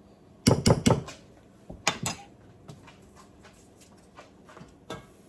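A kitchen utensil knocking against a mixing bowl: three or four quick, loud knocks about half a second in, another about two seconds in, then light clinks and one more knock near the end.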